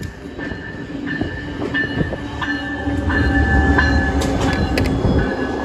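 Siemens Charger SC-44 diesel locomotive leading an Amtrak passenger train past at close range, its engine and wheels on the rails building to a loud rumble about three seconds in and staying loudest as the locomotive passes.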